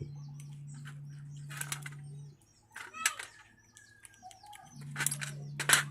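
Small sharp metal clicks and snaps as the brush springs are worked off a motorcycle starter motor's brush holder, the loudest near the end. Under them is a low steady hum that stops for a couple of seconds in the middle.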